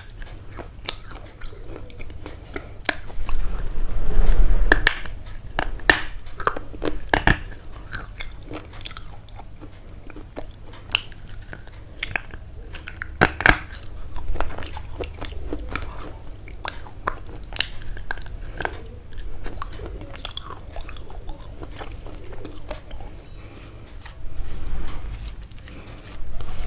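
Crunchy biting and chewing with many irregular sharp crackles.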